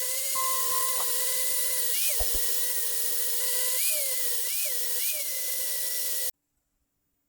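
Small high-speed power tool motor running with a steady whine. Its pitch sags briefly several times as it is pressed into the work, and the sound cuts off suddenly about six seconds in.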